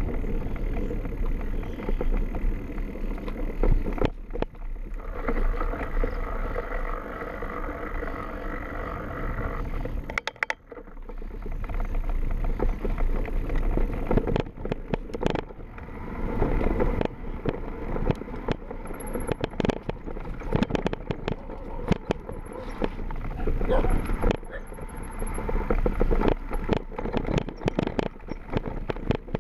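Mountain bike riding down a rough trail, with steady tyre noise and frequent rattles and knocks from the bike over bumps. The sound drops out briefly about ten seconds in.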